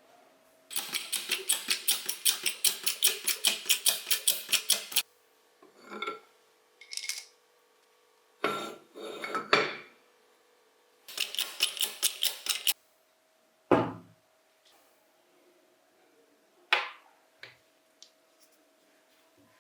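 Metal parts and hand tools clinking and clicking as a bench grinder is reassembled. There are two runs of rapid, even clicks, the first lasting about four seconds, then a sharp knock and a few scattered clicks.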